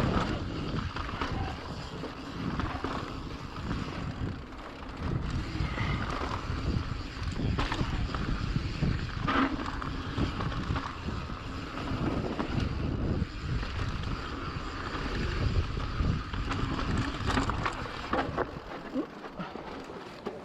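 Mountain bike riding down a dirt trail: tyres rumbling over the ground, the bike rattling and clattering over bumps, and wind buffeting the GoPro microphone. It eases off near the end.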